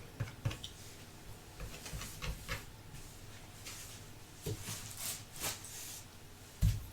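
Close-up handling noises: irregular soft clicks and rustles, a brief hissy scraping stretch after about four and a half seconds, and a low thump near the end.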